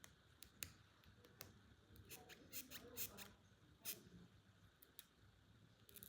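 Near silence with faint, scattered small clicks and taps from handling plastic and die-cast toys, bunched together about two to three and a half seconds in.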